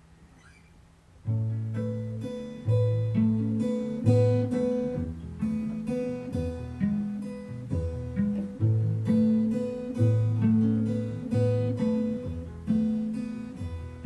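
Instrumental break of acoustic guitar, chords picked and strummed with a bass line under them, starting after about a second of near quiet.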